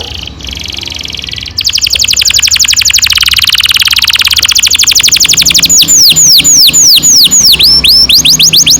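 Domestic canary singing. About a second and a half in, a loud, fast rolling trill starts (the long "roll"). Later it changes to a quick series of repeated downward-sweeping whistles.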